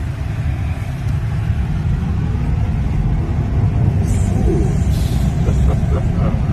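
Low road and tyre rumble inside the cabin of an electric Tesla Cybertruck on the move, with no engine note. It grows a little louder partway through.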